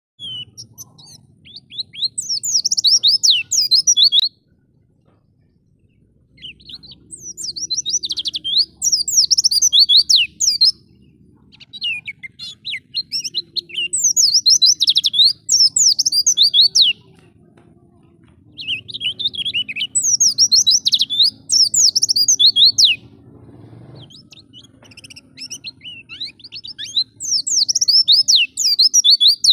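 White-eye (pleci) singing in fast, high twittering phrases. The song comes in about five bursts of a few seconds each, with short pauses between them.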